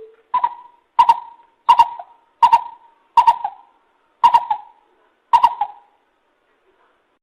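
Lesser coucal calling: a series of seven loud, hollow notes spaced roughly a second apart, each starting with a sharp click and then ringing away. The calls stop about a second and a half before the end.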